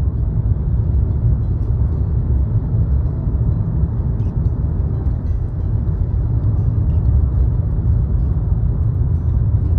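Steady low road rumble of a car driving at highway speed, heard from inside the cabin: tyre and engine noise.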